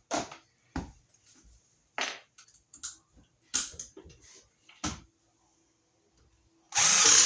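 A series of irregular sharp knocks, about seven in five seconds. A loud steady noise starts suddenly about half a second before the end.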